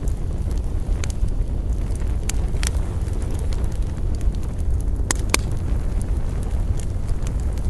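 Wood campfire burning: scattered sharp crackles and pops, two louder ones a little past the middle, over a steady low rumble.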